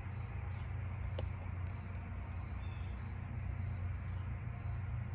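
A steady low hum under faint background noise, with a single small click about a second in.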